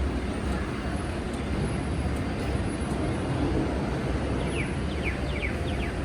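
Steady rumble of a Taipei Metro C381 train and station ambience. About four seconds in, a quick run of short, falling, bird-like chirps starts and lasts a little over a second.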